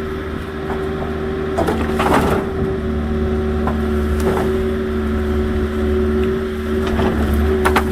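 Small agricultural excavator's engine running steadily while logs crack and splinter under its work, in several sharp snaps about two seconds in, again past four seconds and near the end.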